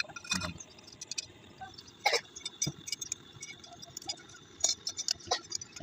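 Alternator parts being handled and fitted together during reassembly: scattered small clicks and knocks of metal parts, the loudest about two seconds in.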